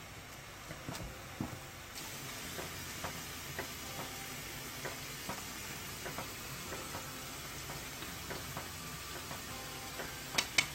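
Close-miked eating of noodles: soft, scattered wet mouth clicks of chewing over a steady hiss, with a few sharper, louder clicks at the very end.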